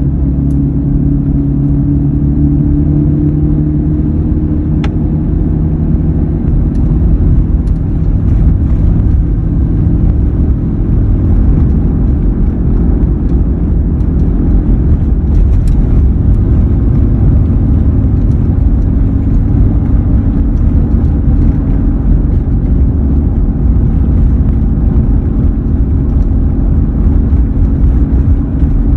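2003 Ford F-150 driving, a steady low hum over engine and road rumble, the hum clearest in the first several seconds. This is the humming noise under investigation, whose cause the owner says could be a number of things.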